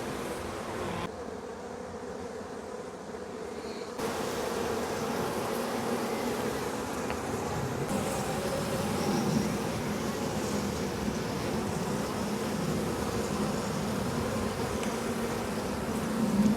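Honeybees humming steadily around an opened hive during an inspection, a little quieter for a few seconds near the start.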